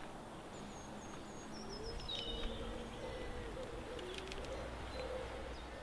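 Near quiet outdoors while a crowd stands in silence: a few birds chirp in short runs in the first half, over a faint steady low hum.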